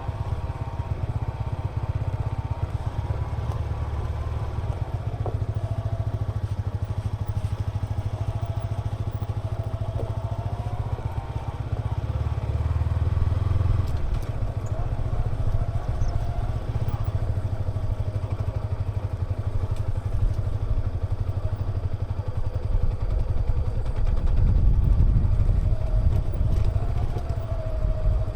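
Yamaha XSR 155's single-cylinder engine and exhaust running while the motorcycle is ridden, a steady low rumble with a wavering engine note, getting louder near the end.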